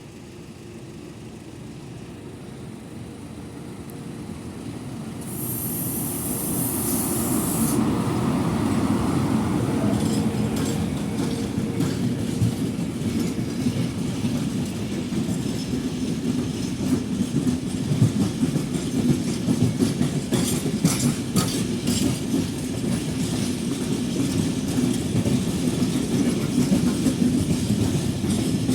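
An FS E652 electric locomotive draws closer and passes, followed by its long train of flat wagons loaded with steel billets rolling by, the wheels clattering steadily over the rail joints. There is a brief hiss about six seconds in.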